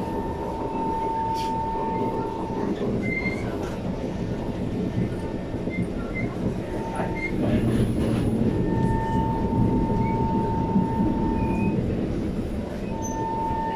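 SMRT metro train running, heard from inside the car: a steady rumble of the wheels on the rails that grows louder about halfway through. Over it comes a thin, high wheel squeal that starts and stops several times.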